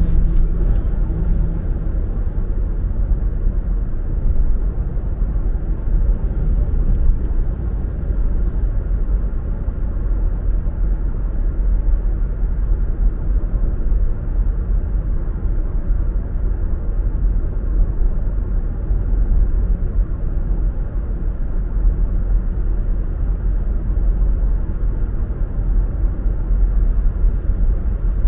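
Steady low rumble of a car on the move: engine and tyre road noise, even throughout.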